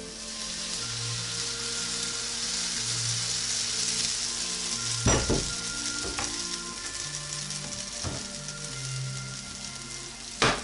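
Pancake batter sizzling as it fries in a hot cast iron frying pan, the sizzle swelling as the batter is poured in. Two sharp knocks, one about halfway and one near the end.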